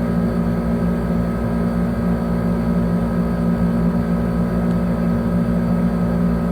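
Steady low mechanical hum that holds the same pitch throughout.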